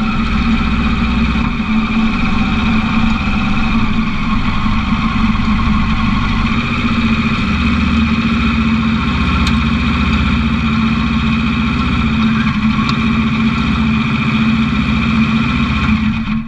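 Small off-road race car's engine idling steadily, heard from inside the cockpit, then switched off right at the end.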